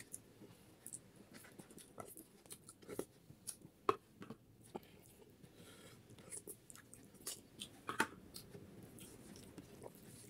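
Close-miked eating sounds of beef head curry: biting and chewing with many short, wet clicks and smacks, the loudest a little before 4 s and at about 8 s.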